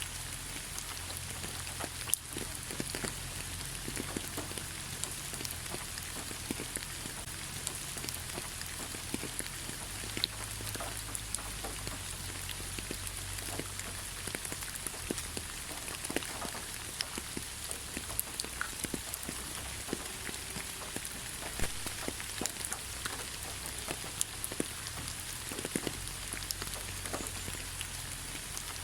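Steady rain falling in a thick pine forest: an even hiss, with many scattered louder drops ticking and pattering on the trees and ground.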